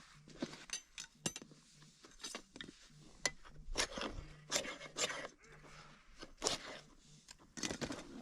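Irregular clicks, scrapes and rustles of gear being handled, with a few sharper knocks near the middle and again near the end.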